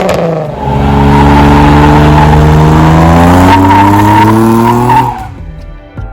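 Car engine revving hard under acceleration, its pitch climbing steadily for about four seconds before the sound drops away suddenly about five seconds in.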